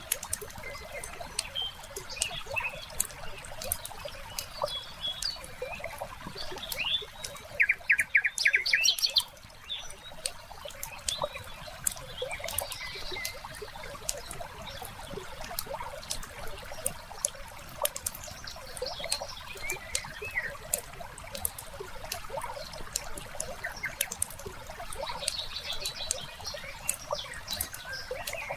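Wood fire crackling with frequent sharp pops, while birds chirp now and then in the background. About eight seconds in comes the loudest sound, a brief rapid burst of chattering clicks.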